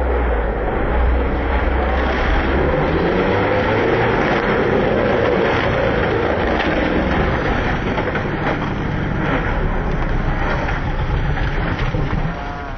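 Rally car engine running at high revs, its pitch rising and falling, over a dense rush of noise.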